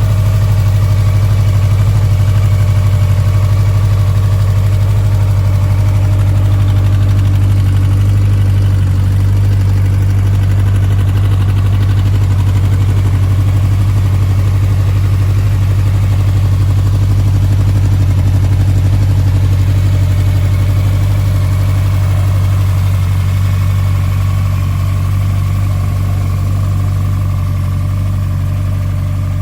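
Honda CB1100RS air-cooled inline-four engine idling steadily. It dips slightly in level near the end.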